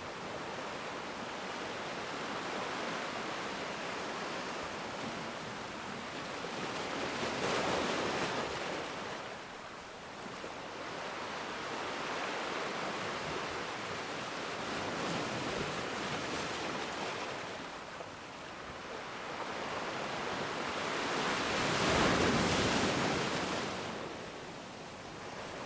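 Ocean waves breaking and washing ashore, a steady rush that swells and ebbs, with the loudest surges about 8 seconds in and near the end.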